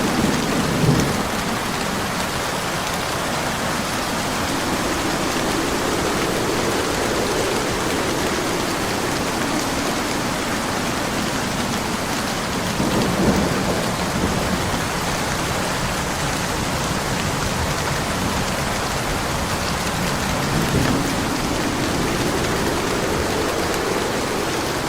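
Steady heavy rain with rolls of low thunder rumbling in and out: one near the start, a stronger one about halfway through, and another near the end.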